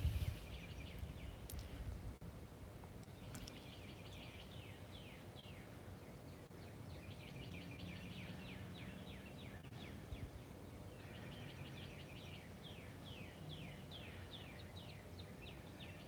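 Faint bird song: runs of quick, repeated falling chirps, starting about three seconds in and again about eleven seconds in, over low background noise.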